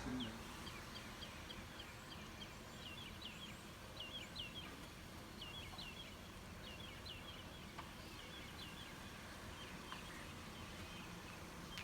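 Faint outdoor ambience: a small bird chirping in short repeated notes, often in pairs, over a low even hiss.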